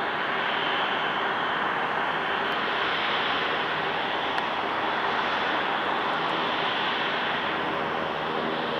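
Airbus A330 jet engines and airflow: a steady rushing noise that swells slightly in the middle and then eases, with a faint hum coming in near the end.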